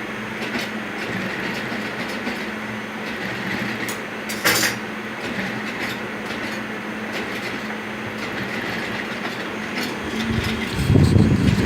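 Workshop machinery running: a steady motor hum with scattered clicks and clatter. There is one sharp burst about four and a half seconds in, and a louder, rougher rumble starts near the end.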